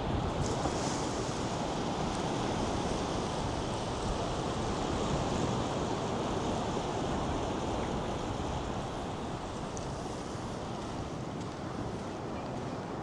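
North Sea surf washing steadily onto the beach, with wind buffeting the microphone.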